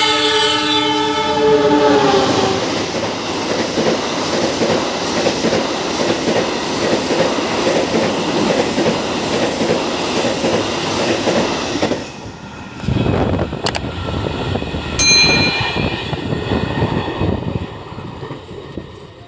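A diesel locomotive's horn sounds for about two and a half seconds, its pitch falling as it comes past. Then the locomotive and its passenger coaches rumble and clatter by close at hand. After a sudden drop, quieter train noise goes on, with a brief high ringing tone.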